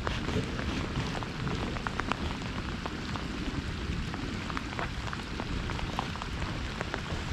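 Steady rain falling on the lake's surface, with many small sharp drop ticks over a low rumble.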